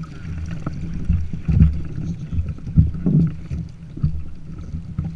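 Sailing kayak moving through the water: a steady low rumble with irregular low thumps of water slapping the hull and wind buffeting.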